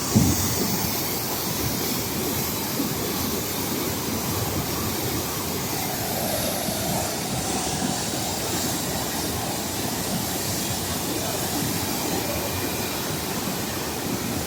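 Flash-flood water rushing down a wadi: a steady, dense noise of turbulent water. A short thump comes right at the start.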